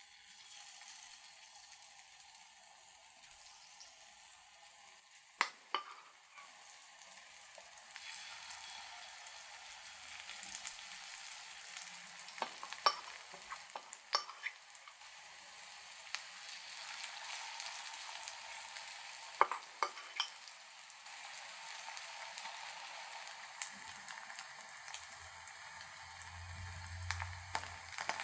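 Food frying in hot oil in a pan, a steady sizzle with a few sharp clicks and pops now and then.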